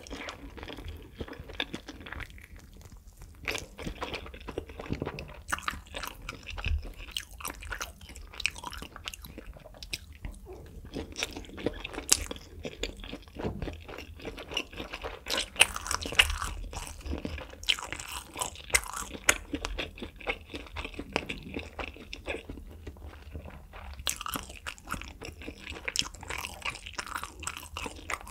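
Close-miked chewing of a spicy fire noodle wrap: irregular crunching and crackling as the noodle coating breaks between the teeth, with a short lull shortly before the end.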